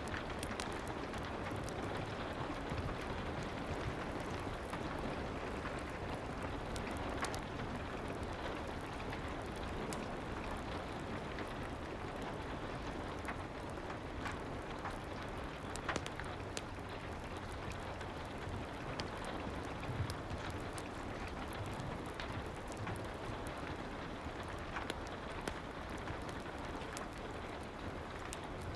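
Soft, steady rain mixed with a crackling fireplace: an even hiss broken by scattered sharp crackles and ticks.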